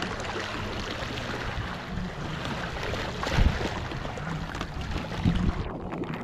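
Choppy sea water splashing and lapping against the hull of a small boat, a steady rushing with a couple of low knocks about three and a half and five seconds in.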